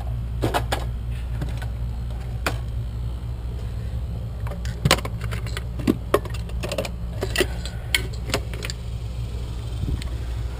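Small metal clicks and rattles of drywall screws being handled and set against an electrical box, over a steady low hum.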